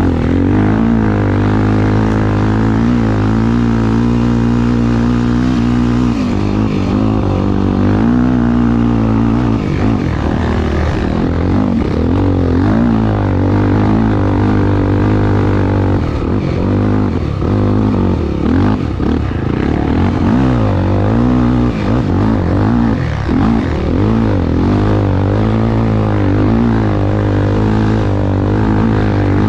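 Honda XR250 Tornado single-cylinder four-stroke motorcycle engine running hard under race load, its revs rising and falling continuously.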